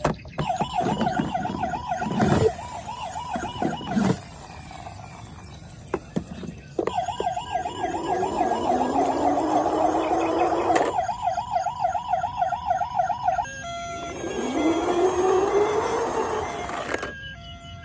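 A battery toy vehicle's electronic siren, a fast-warbling tone that plays in stretches of several seconds, stopping and starting. It is mixed with rising electronic whoops and a few sharp plastic clicks.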